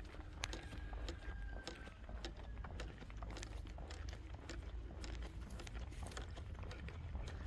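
Footsteps of a person walking on a trail, a run of irregular light steps over a steady low rumble.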